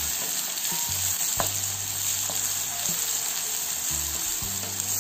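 Chopped onions, garlic, curry leaves and dried red chillies sizzling steadily in hot oil in a kadai while a wooden spatula stirs them: the tempering (tadka) being fried for dal.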